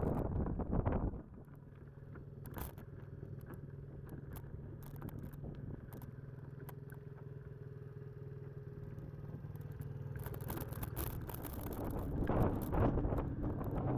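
Off-road motorcycle engine running at a steady pitch, growing louder toward the end. A loud rush of noise in the first second cuts off abruptly.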